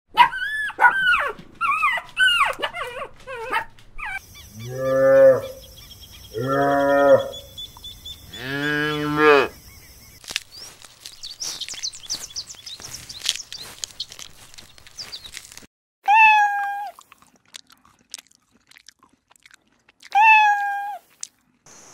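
Cats meowing: several short high-pitched mews at first, then three long, low, drawn-out yowls, and two short falling meows near the end.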